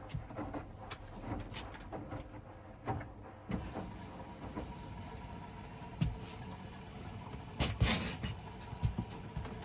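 Hoover front-loading washing machine running a wash: a steady hum with scattered knocks and thuds. A hiss comes in about three and a half seconds in.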